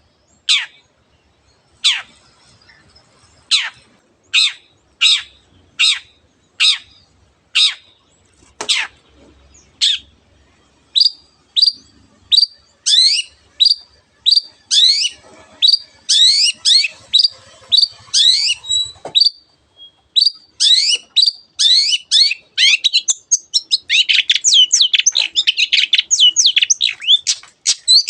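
Long-tailed shrike singing: a slow string of sharp, downward-sweeping notes that quickens after about ten seconds and breaks into a fast, dense run of chattering notes in the last few seconds.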